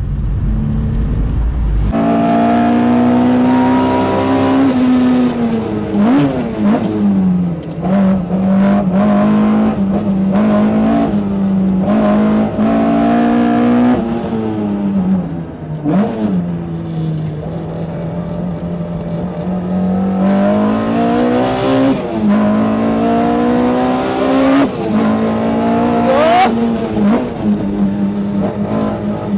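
Race car engine pulling hard on track, its pitch climbing and falling back several times as it shifts and lifts for corners. A low rumble holds the first couple of seconds before the engine note comes in.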